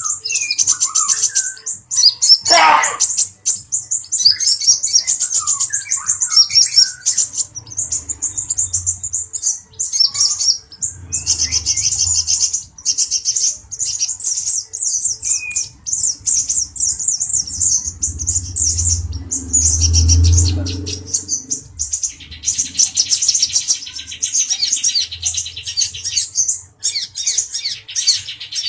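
Male brown-throated sunbird singing: a continuous run of rapid, high-pitched chirps and twitters. About three quarters of the way through, a lower, even, buzzy trill joins in.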